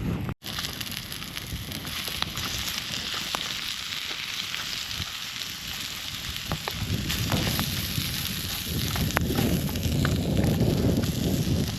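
Wood campfire crackling over a steady hiss, with scattered sharp pops. A low wind rumble on the microphone grows in the second half.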